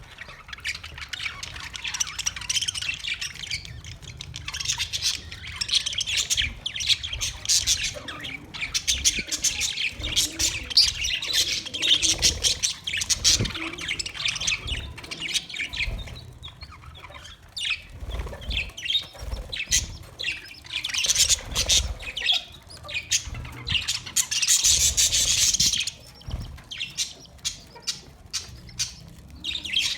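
Budgerigars chirping and chattering, many rapid overlapping chirps that swell louder now and then.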